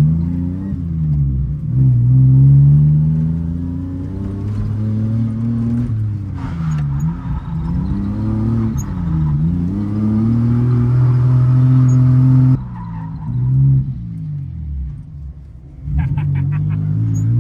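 Car engine revving hard, its pitch climbing and falling again and again every second or two. The sound changes abruptly about twelve and a half seconds in and again near sixteen seconds.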